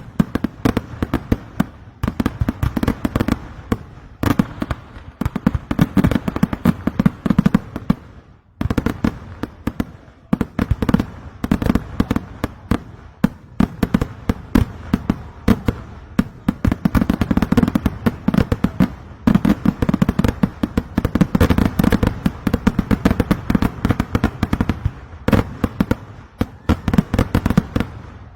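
Kerala temple fireworks (vedikkettu): a dense, rapid barrage of firecracker bangs, many per second, with a brief lull about eight seconds in.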